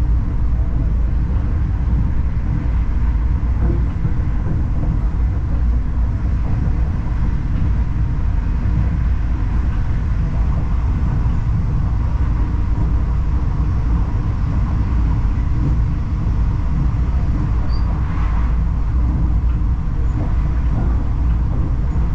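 Steady low rumble of a Laos-China Railway passenger train running along the line, heard from inside the carriage.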